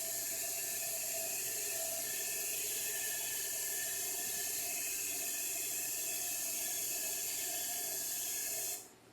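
A steady, bright hiss that starts and stops abruptly and holds level for about nine seconds, with faint steady tones beneath it.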